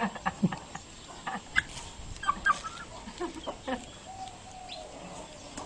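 Hen clucking in short, irregular calls, with one longer drawn-out call a little past the middle.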